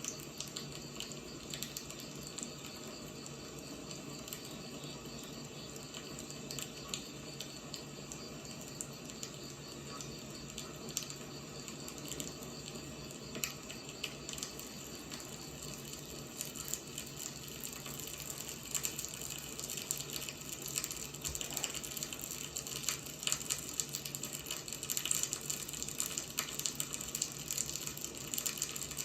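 Wood fire burning: a steady hiss with frequent sharp crackles and pops, which grow busier and a little louder in the last third.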